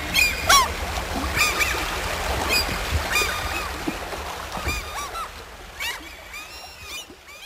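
Birds calling in short, repeated chirps over the steady rush of running water, the whole fading out near the end.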